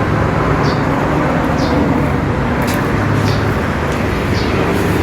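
Steady loud mechanical drone with short, high chirps falling in pitch about once a second.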